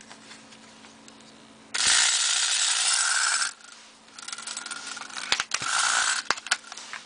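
Clockwork spring motor of a vintage Marx wind-up tin toy locomotive running free and whirring as it unwinds, in two runs: one of about two seconds, then after a short stop a second one with several sharp clicks.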